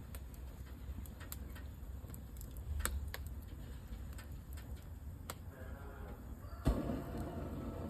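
Nurgaz gas fireplace heater: scattered sharp clicks and ticks, then a sudden thump near the end followed by a steady rushing sound.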